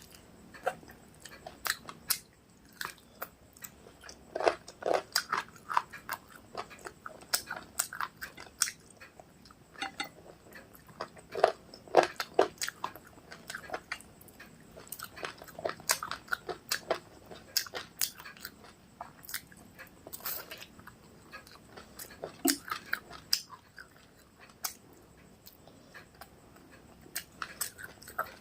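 Close-miked chewing of rice and chicken curry: many short, wet mouth clicks and smacks in irregular clusters, with brief lulls between mouthfuls.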